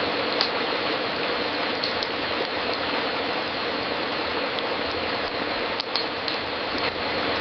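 Fireplace crackling: a dense, steady crackle with a few sharper pops.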